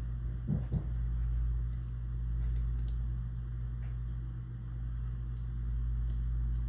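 A steady low hum runs underneath throughout. Two soft knocks come about half a second in, and a few faint clicks follow, from small shotgun action parts being handled on the bench.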